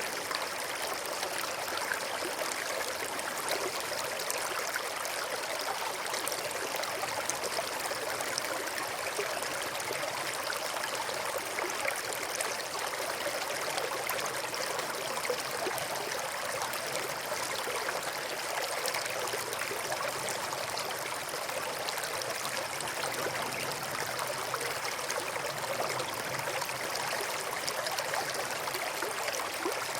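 River water flowing and splashing over rocks: a steady rushing with fine bubbling and gurgling.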